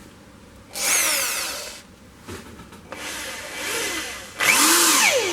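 Handheld electric drill drilling a hole that will be tapped for a thread. It runs in two bursts, one about a second in and a louder one near the end, and its motor whine slides up and down in pitch as it speeds up and slows.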